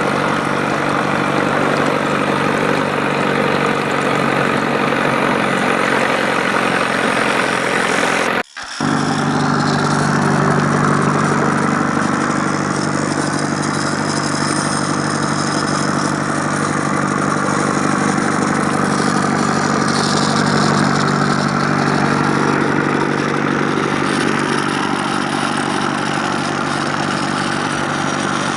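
A small motor runs steadily with a constant hum. It breaks off for a moment about eight seconds in and then carries on unchanged.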